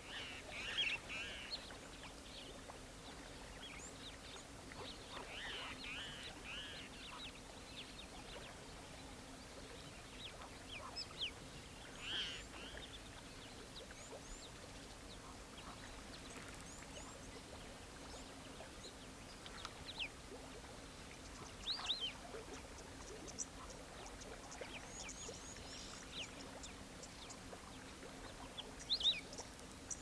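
Wild birds calling: scattered short chirps and quick sweeping whistles, with a few louder bursts of calls near the start, in the middle and near the end, over a faint steady low hum.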